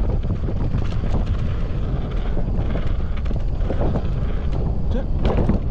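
Wind buffeting the microphone over a mountain bike rolling fast down a dirt trail, with scattered clicks and rattles from the bike.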